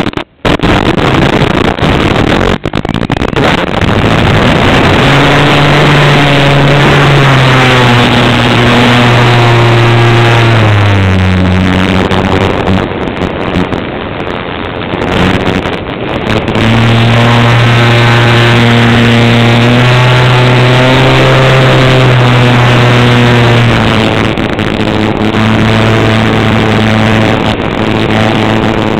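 Cessna light aircraft's piston engine and propeller running loud and steady. The pitch drops about ten seconds in, stays lower and a little quieter for a few seconds, then comes back up about sixteen seconds in, as the power is reduced and then restored.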